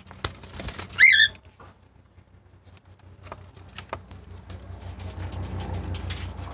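A cockatiel gives one short, loud, upward-sweeping call about a second in, among scattered clicks and rattles of the cage. A rustling noise builds toward the end.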